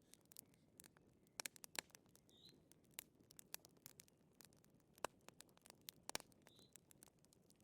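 Wood fire crackling in a fireplace: irregular sharp pops and snaps over a faint low hiss.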